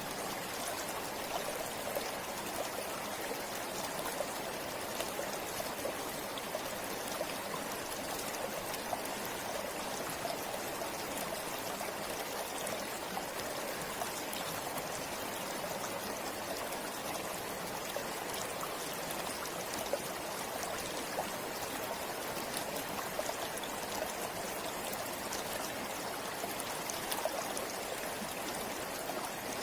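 Shallow forest river flowing steadily, a continuous rushing and burbling with small splashes and trickles over it.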